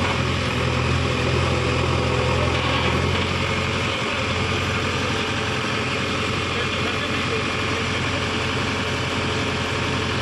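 Heavy diesel engine running steadily near idle, its note shifting slightly about three seconds in.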